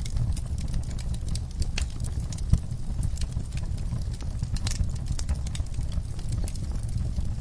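Wood fire burning in a fireplace: a steady low rumble of flames with frequent irregular crackles and snaps of the burning logs, and one louder pop about two and a half seconds in.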